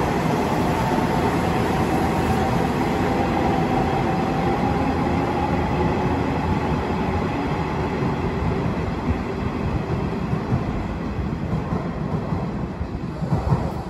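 Nishitetsu electric train pulling out of the platform, its motor whine rising gently in pitch as it gathers speed. The noise then slowly dies away as the train leaves.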